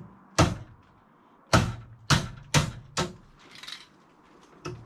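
A series of sharp, loud knocks: one, then four in quick succession about half a second apart, and a lighter one near the end.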